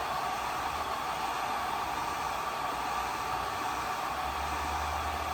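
Hair dryer blowing steadily, drying the wet watercolour paint, and switched off near the end.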